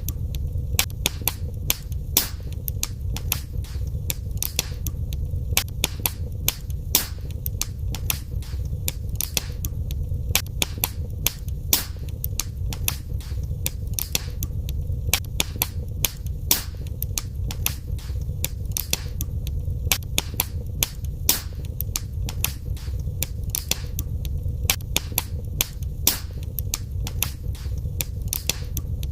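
Fire in a fireplace crackling, with many sharp, irregular pops over a steady low rumble.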